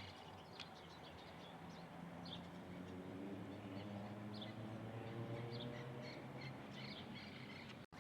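Several small birds chirping, short high notes scattered throughout, over a low steady hum that fades out near the end.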